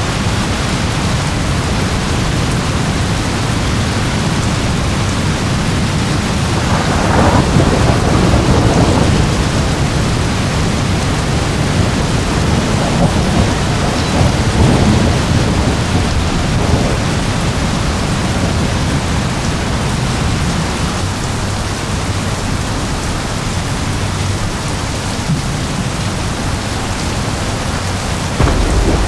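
Steady heavy rain with rolling thunder: one long swell of thunder about seven seconds in, another rumble around the middle, and a fresh low rumble starting near the end.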